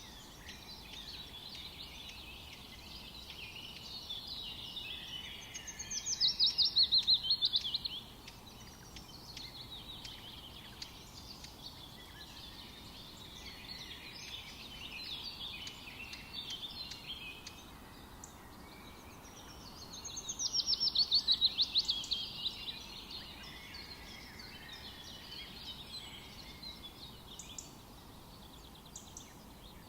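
Forest birds singing, many overlapping calls and songs. Twice, once near the start and again midway, about 14 seconds apart, one bird gives a loud, rapid trill that falls in pitch and lasts about two seconds.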